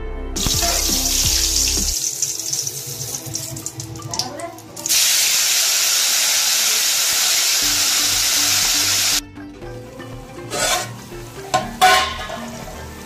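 Bay leaves sizzling in a hot metal pan, then onion paste spooned in and hissing loudly for about four seconds before the sound cuts off suddenly. A metal spoon then clinks and scrapes against the pan near the end, with background music underneath.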